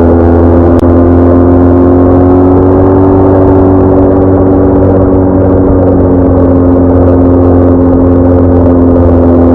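BMW R1200R boxer-twin motorcycle engine running at a steady cruise with a low wind rumble. The engine note rises slightly about two seconds in and eases back a few seconds later.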